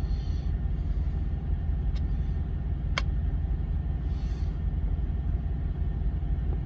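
Steady low rumble of an idling semi-truck diesel engine heard inside the cab, with a single sharp click about three seconds in.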